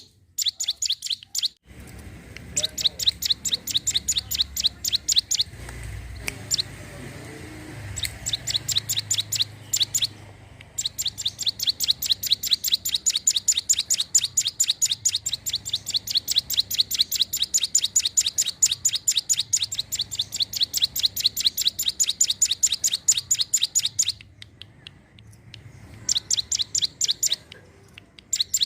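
Ciblek gunung (a mountain prinia) singing: long runs of rapid, evenly repeated high chirping notes, several a second, broken by a few short pauses, in the bird's full 'gacor' song.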